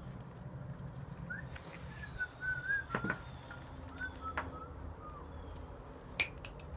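A few soft whistled notes, wandering up and down in pitch for a few seconds, with sharp clicks about three seconds in and near the end.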